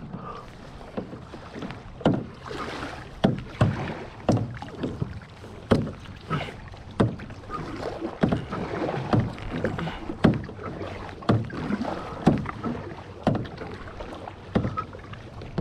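Kayak paddle strokes, about one a second: the blades dip and splash into the water, with sharp knocks among them.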